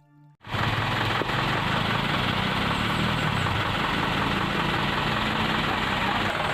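Dump truck's diesel engine running steadily, cutting in suddenly about half a second in after a fading strain of music.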